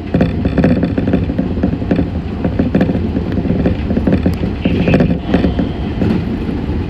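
Meitetsu 6500 series electric train running at speed, heard from inside the car: a steady low rumble with a rapid, continuous rattle and clatter of wheels on track. A brief higher-pitched tone rises over it a little past the middle.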